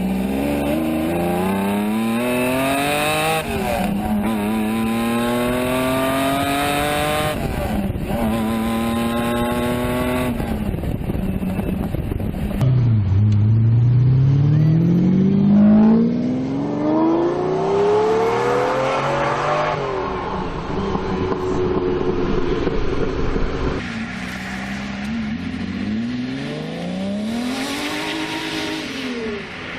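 Lamborghini Diablo V12 accelerating hard through the gears: the engine note climbs steeply, drops at each upshift and climbs again, three times in quick succession. Then it makes further pulls, one long climb, a steadier stretch and a last rise and fall.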